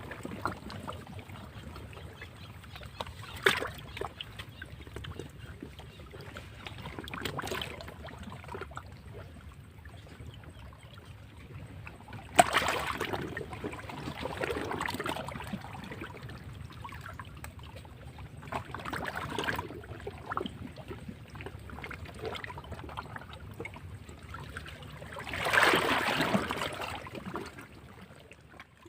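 Sea waves breaking and washing over rocks, with a surge every few seconds. A sharp crash comes near the middle, and the loudest wave swells and falls away near the end.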